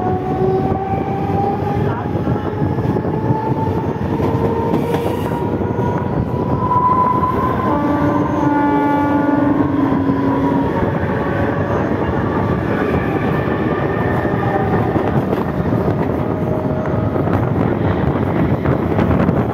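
Suburban electric local train running at speed, heard from its open doorway: a steady rush and rumble of wheels and wind, with whining tones that glide slowly up and down. About eight seconds in, a train horn sounds for about two and a half seconds as another local passes on the next track.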